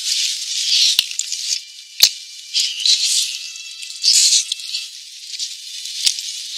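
Close-up wet chewing and lip-smacking on braised beef hoof, in irregular bursts with a few sharp clicks; the sound is thin and hissy, with no bass.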